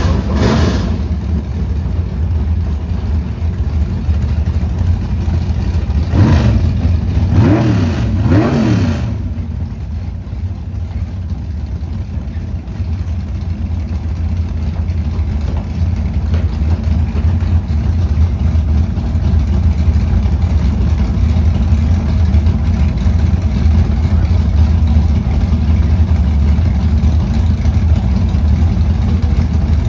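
Drag-racing car engines running with a steady low rumble; about six seconds in, an engine revs up and down a few times before settling back.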